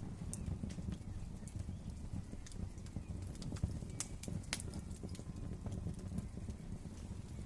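Wood fire crackling in a fireplace: a steady low rumble of burning with sharp, irregular pops and snaps, several of them close together around four to four and a half seconds in.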